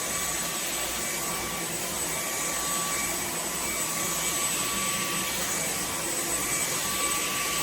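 Tineco Floor ONE S5's detachable cordless vacuum unit running steadily while vacuuming a hard floor: an even rush of suction with a thin, steady high whine.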